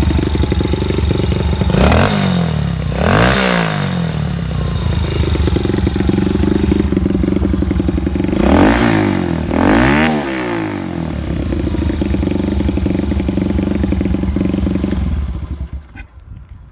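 Kawasaki KSR110 single-cylinder four-stroke, bored up to 138cc with a Takegawa kit and breathing through a Nojima titanium up-muffler, idling and blipped with the throttle twice in quick succession, then twice more, each rev climbing and dropping back to idle. The engine is switched off near the end.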